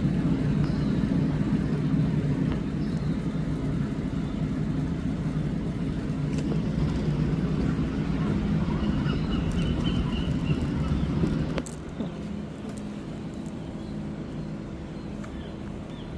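Vehicle engine idling with a steady low hum. About eleven and a half seconds in there is a click, and the hum drops sharply to a quieter steady drone.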